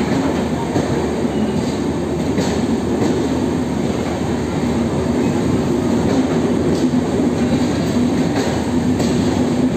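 Passenger coaches rolling past a station platform: a steady rumble of wheels on rail, with irregular clicks as the wheels cross rail joints, over a steady hum.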